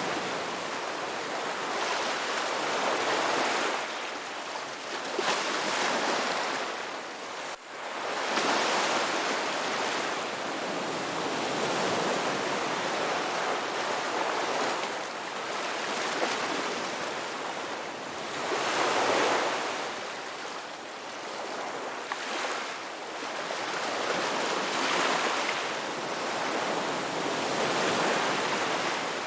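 Ocean waves breaking and washing up a beach, surging and receding every few seconds, with a brief drop in level about seven to eight seconds in.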